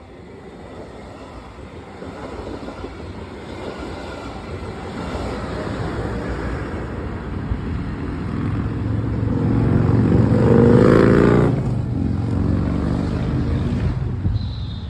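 A large vehicle passing close by: its engine noise builds steadily to a loud peak about eleven seconds in, then falls off sharply.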